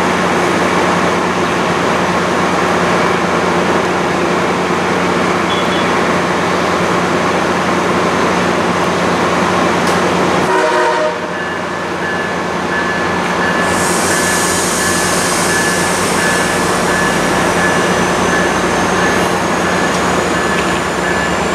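MARC commuter train standing at the platform, its diesel locomotive running loudly and steadily. About halfway a short horn-like tone sounds, then the noise drops slightly and a steady high hiss starts.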